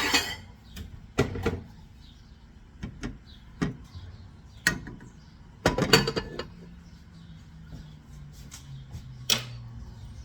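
Kitchen dishes and a cooking pot being handled: scattered knocks and clinks, with a steady low hum setting in about two-thirds of the way through.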